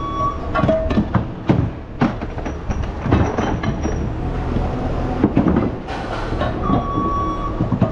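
Scrap metal clanking and banging over the steady rumble of heavy machinery, with a vehicle's reversing beeper sounding briefly at the start and again near the end.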